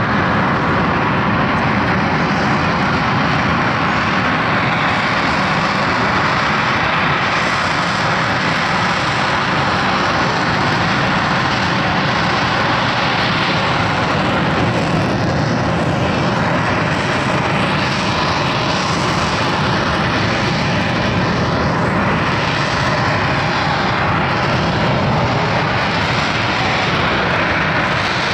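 Harrier jump jet's Rolls-Royce Pegasus turbofan running loud and steady as the jet holds a hover: a continuous jet roar and rushing hiss, wavering slightly in the second half.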